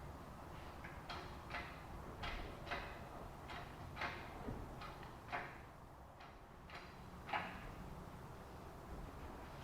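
Irregular short knocks and scrapes of work in the engine bay while the Vega's old four-cylinder engine is being pulled, about a dozen over several seconds with a quieter stretch near the end.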